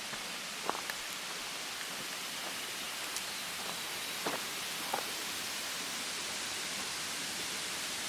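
Tatsusawa Fudo waterfall rushing: a steady wash of falling water, with a few sharp droplet or splash ticks in the first half.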